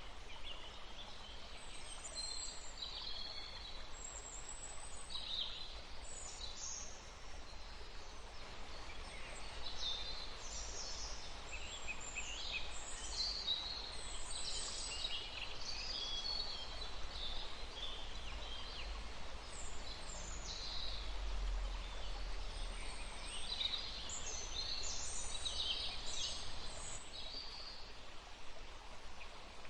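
Several songbirds chirping and twittering, short high calls overlapping in a busy chorus over a steady hiss of outdoor background noise.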